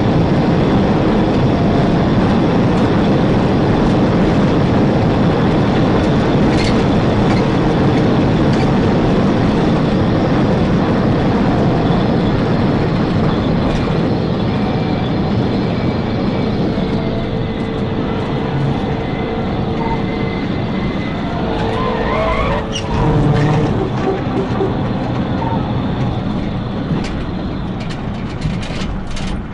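Police car driving at high speed in pursuit: a loud, steady rush of engine, tyre and wind noise, with a siren faintly wailing up and down about two-thirds of the way through.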